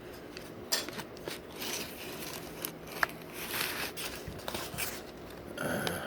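A person chewing a burger close to the microphone, with scattered small clicks and crinkly noises.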